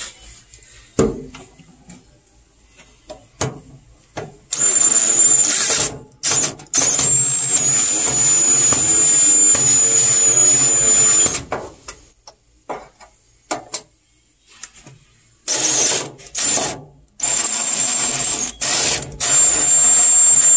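Cordless drill driving screws in a series of runs, each a steady high whine. The longest run lasts about four and a half seconds, with shorter stop-start bursts after it and a few more near the end.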